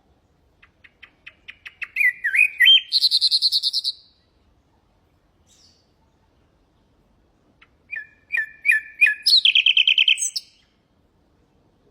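Nightingale singing two song phrases. Each opens with a run of short repeated notes that grow louder and quicker, then ends in a loud, fast trill.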